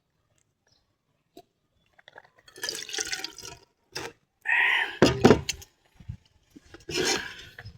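Close-up liquid sounds in three bursts of about a second each, starting a couple of seconds in, the middle one the loudest.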